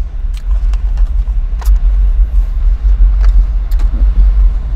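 Loud low rumble of a car, with scattered light clicks and taps from eating at the wheel.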